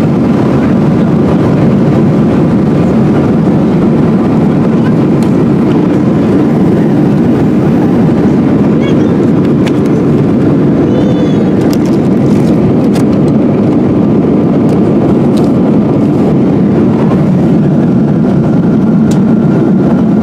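Steady roar inside a Boeing 777-200 airliner's cabin, a dense low rumble that holds level throughout, with faint voices under it.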